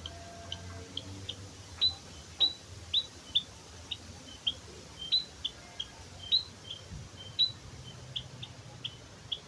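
White-headed munia (emprit kaji) calling: a steady run of short, high chips, about two a second. Some of the louder notes slide down in pitch.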